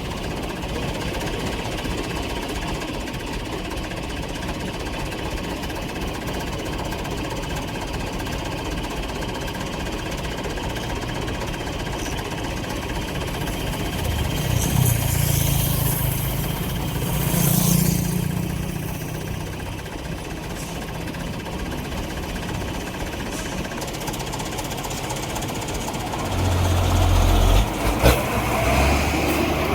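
Vehicle engine and road noise running steadily, with two louder swells about halfway through and a heavier low rumble in the last few seconds.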